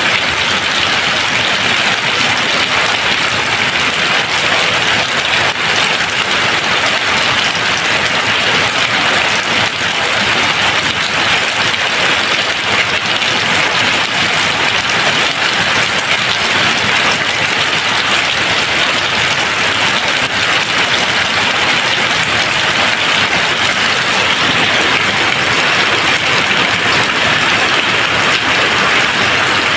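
Steady, even rain falling without a break, with no thunder.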